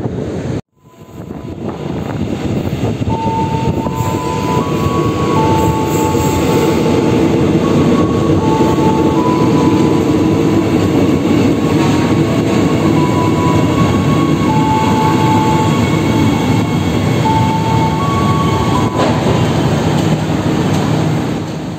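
Soekarno-Hatta Airport Rail Link electric train running close alongside the platform, a loud steady rumble that builds over the first few seconds and holds. A string of steady high notes stepping up and down like a tune sounds over it through most of the pass.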